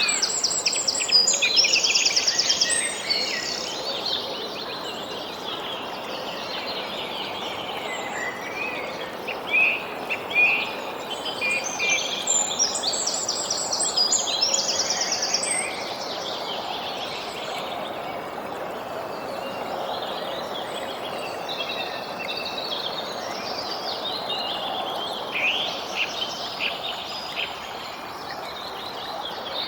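Songbirds singing and chirping over a steady background hiss. One bird's song, ending in a fast trill, comes near the start and again almost identically about twelve seconds in.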